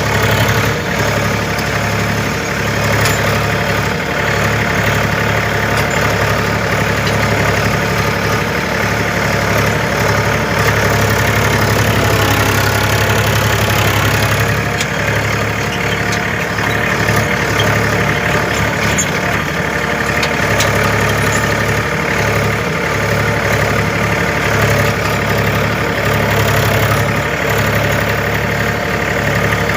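Tractor's diesel engine running steadily, a constant low drone with a rattly mechanical edge, likely pulling a plough through the field.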